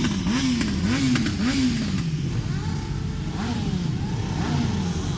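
Motorcycle engines revving, with quick repeated throttle blips for the first couple of seconds and then a few slower single revs.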